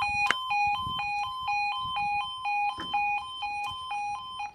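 UK level crossing two-tone yodel alarm, switching steadily between a low and a high note about twice a second, then cutting off suddenly near the end.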